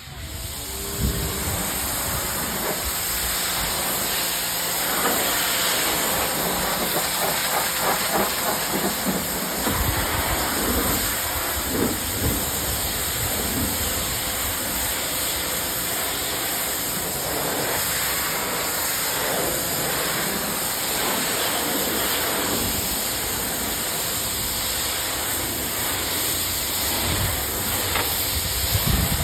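Pressure washer spraying a jet of water onto vinyl siding: a loud, steady hiss of spray that starts suddenly and keeps on, rinsing off the bleach cleaner.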